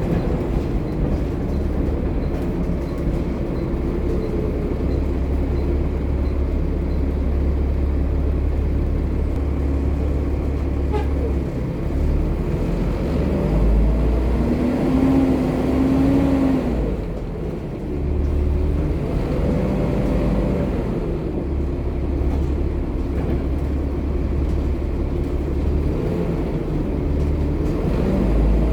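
Volvo B7TL double-decker bus's engine and transmission running under way, a steady low rumble with a pitched whine. The whine rises as the bus pulls away about halfway through, drops with a brief dip in loudness, then climbs again twice more.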